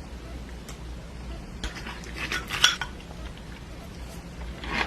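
Dishes and utensils clinking and knocking as food is set out: scattered sharp clicks, a cluster of them in the middle, the loudest about two and a half seconds in, and one more near the end.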